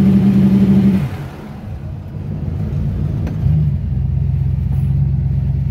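Turbocharged SN95 Ford Mustang engine held at about 3,000 rpm on the two-step launch limiter with an anti-lag timing table, building about 4 psi of boost against the brakes. About a second in the throttle comes off and the revs fall away, rise briefly about three and a half seconds in, then settle to a steady idle.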